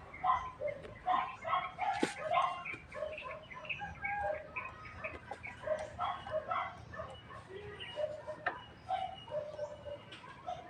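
Chickens clucking and birds chirping in short, irregular calls, with a couple of sharp clicks.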